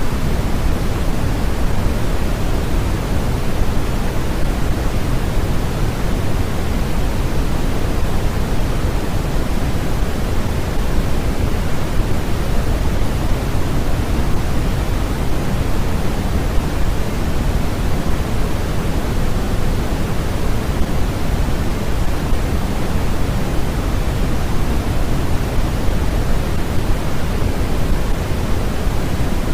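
Steady, unchanging noise of the kind played as 'white noise' for sleep, with no events or rhythm. Its energy is strongest in the low end and thins out toward the highs, closer to pink noise than flat white noise.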